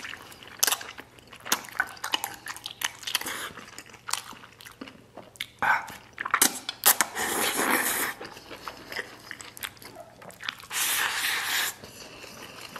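Close-miked mouth sounds of eating wide starch noodles and rice in braised sauce: wet chewing with many short smacking clicks, and two longer, noisier slurps about seven and eleven seconds in.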